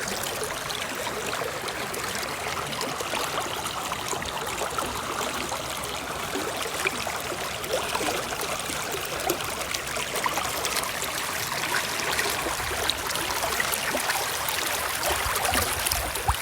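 A river running: a steady rush of flowing water with a fine babbling crackle.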